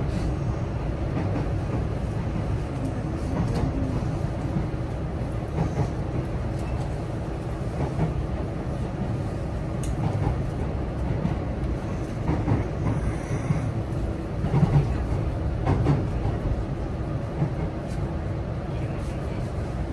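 Running noise heard inside the cabin of a JR West 323 series electric train under way: a steady low rumble from the wheels and track, with occasional clicks of the wheels over rail joints.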